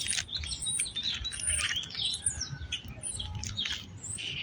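Small birds chirping, many short high calls in quick succession and overlapping, over a low rumble.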